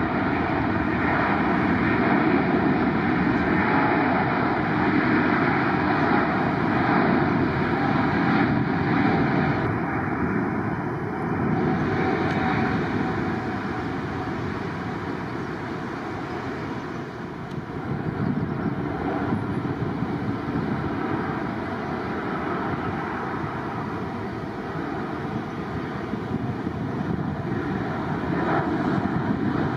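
Jet airliner engines running loud and steady, easing off a little around the middle and building again near the end.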